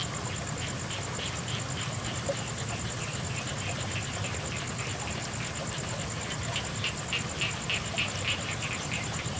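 Frogs calling in a fast run of short croaks, about three a second, louder in the last few seconds. Behind them run a steady high insect trill and the even hiss of night rain.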